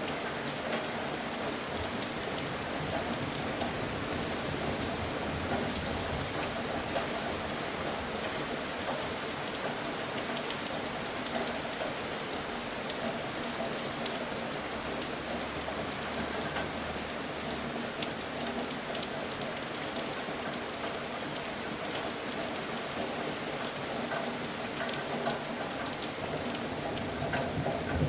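Steady rain falling, with individual drops ticking on a surface close by.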